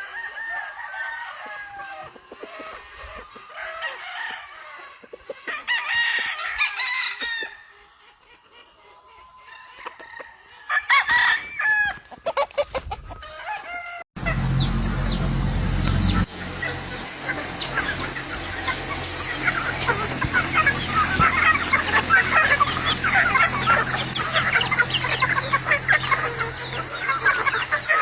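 Gamefowl roosters crowing, several separate calls in the first half. About halfway the sound changes abruptly to many chickens clucking and calling together over a steady low hum.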